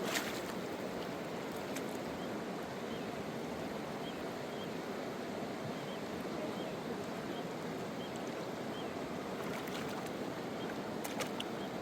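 River water rushing steadily, with a few faint short high chirps in the middle.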